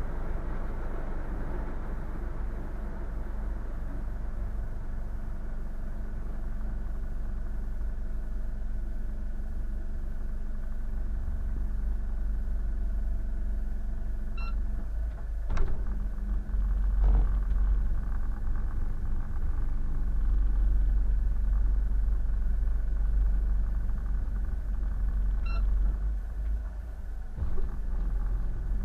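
Boat engine running steadily, mostly deep in sound with a steady hum over it. A couple of sharp knocks come about halfway through.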